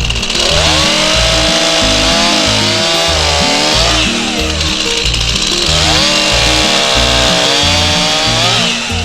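Wood Boss 251 chainsaw making two cuts through firewood logs, each lasting three to four seconds: it revs up, runs at high speed through the wood, then drops off, under background music with a steady beat.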